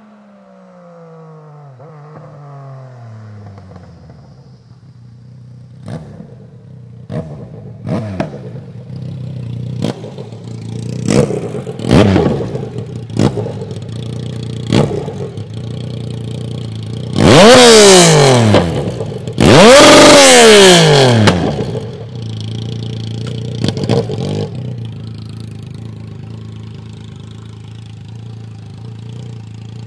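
Yamaha MT-09's three-cylinder engine through a straight-pipe exhaust with no muffler, settling to idle and then blipped: a run of short throttle stabs, then two long loud revs a little past halfway that rise and fall, before it drops back to a steady idle.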